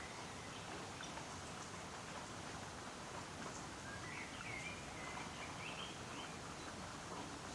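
Steady hiss of rain, with a small bird chirping in short, quick phrases, once briefly at the start and again for a couple of seconds about four seconds in.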